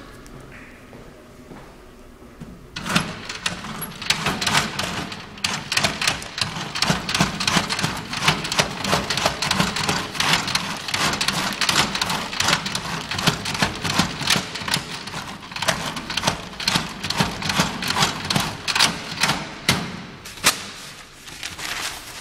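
Caroma toilet flushing a bowl packed with toilet paper: water rushing and splashing in a dense, irregular crackling spatter that starts about three seconds in and eases off near the end.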